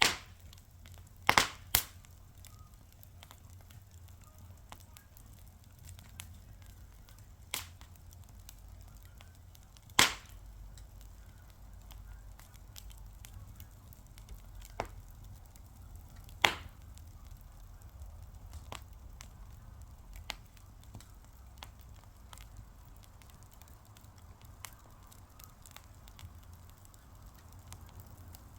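Fire crackling: loud sharp pops now and then, a pair about a second in and others about ten and sixteen seconds in, over many fainter ticks and a low steady rumble.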